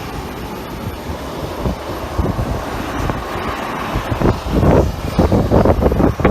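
Jet engines of an airliner at takeoff thrust, a steady rushing noise. From about four seconds in, gusts of wind buffet the microphone.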